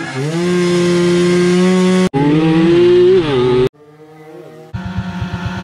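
Motorcycle engine revving hard at high rpm in several short clips joined by abrupt cuts. The pitch climbs and holds high, a second high run drops in pitch near its end, a short quieter passage has a falling note, and a steady high buzz follows.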